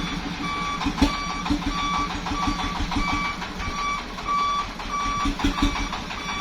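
A vehicle's reversing alarm beeping evenly about every 0.6 s over a running engine, with one sharp knock about a second in.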